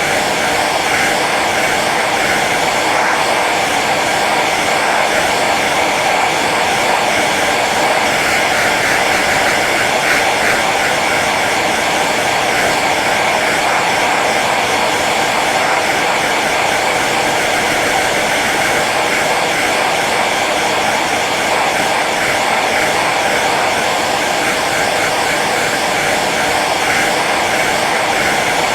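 Hair dryer running steadily on its low setting: a constant whooshing blow of air with the hum of its fan motor.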